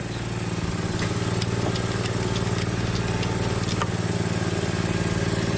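A motor running steadily with a fast, even pulse, and a few faint light clicks over it.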